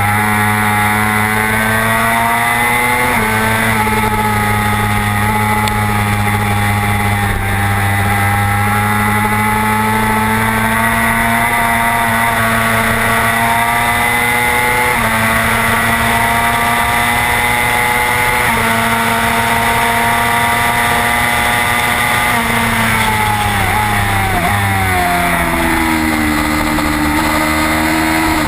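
Racing motorcycle engine at high revs heard onboard, pitch climbing slowly through each gear and dropping sharply at upshifts about 3 seconds in and again around 15 and 19 seconds, over steady wind rush. Near the end the pitch falls in several steps as the bike slows for a corner, then rises again.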